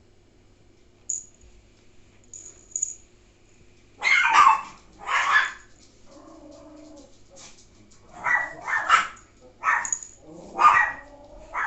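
A dog barking: two barks about four to five seconds in, then a run of about five more from about eight seconds on, with a fainter drawn-out whine between them.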